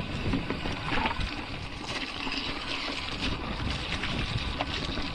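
Mountain bike rolling along a dirt trail: a steady gritty tyre noise, with a few scattered clicks from the bike rattling.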